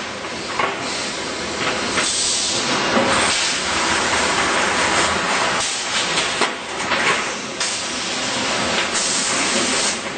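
Automatic resistance seam welding machine for jerrican bodies running, a steady hiss with louder surges of hissing every few seconds and a few sharp clanks.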